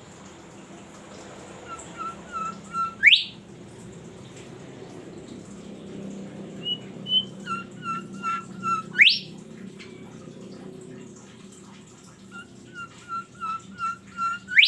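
A songbird singing three phrases, each a run of short repeated whistled notes that ends in a fast upward-sweeping whistle, the loudest note of each phrase.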